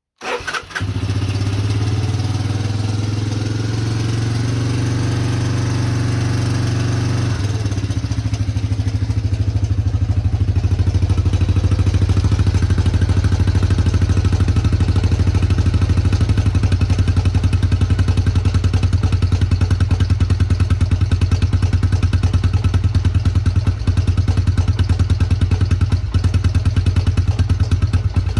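1986 Honda Fourtrax 250 ATV's single-cylinder four-stroke engine on a cold start after sitting all winter: it catches almost at once and runs. About seven seconds in its note changes, and it settles into a steady, pulsing idle.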